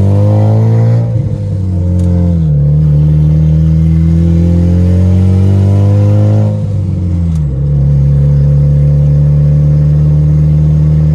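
Turbocharged Honda Civic's D16Y8 1.6-litre four-cylinder heard from inside the cabin, pulling through the gears of its manual gearbox. The revs rise and fall away twice, about a second in and again near seven seconds, as he shifts up, then the engine runs steadily.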